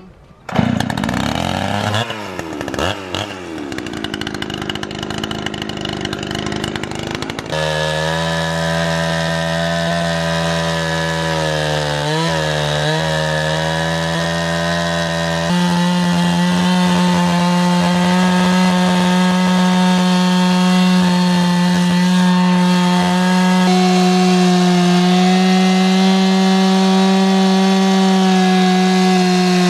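Two-stroke chainsaw starting up and revving unevenly for several seconds, then running at steady high speed as it cuts a large log, dipping twice briefly a little before the middle and picking up again after.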